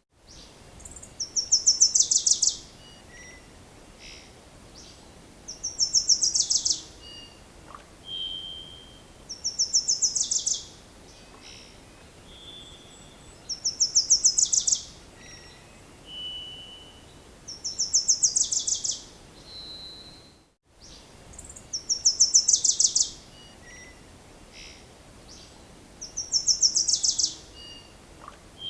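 A songbird singing a short, fast, high-pitched trill, repeated about every four seconds, with brief single whistled notes between the trills.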